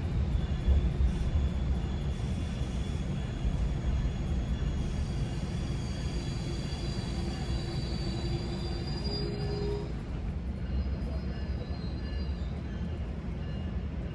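A GO Transit commuter train running on the rails, heard from inside a passenger coach: a steady low rumble, with faint high-pitched whines that come in about five seconds in and fade near ten seconds.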